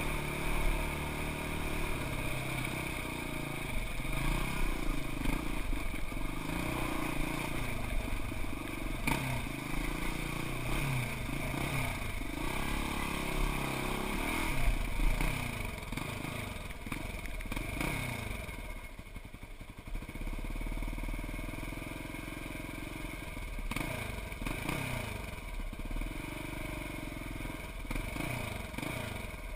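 Engine of a Wildcat side-by-side off-road vehicle revving up and down over and over as it climbs through a rocky wash, with clattering and scraping from the rough ground. It eases off briefly about two-thirds of the way through, then picks up again.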